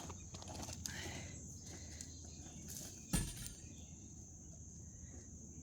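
Insects trilling steadily in the background, with a few light clicks and a single loud thump about three seconds in.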